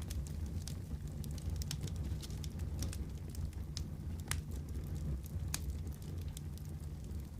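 Wood fire crackling in a fireplace: a steady low rumble of the flames with frequent, irregular sharp pops and snaps.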